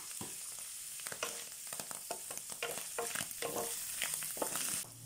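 Sliced garlic, mushrooms and celery sizzling in a stone-coated frying pan, stirred continuously with a wooden spatula that scrapes and taps the pan in quick, irregular strokes over the steady hiss of the frying.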